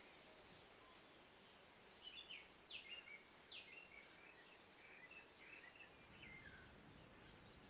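A songbird singing one faint, varied phrase of high whistled notes, several sliding down in pitch, lasting about four seconds. Faint short chirps from other birds sound over a steady background hiss.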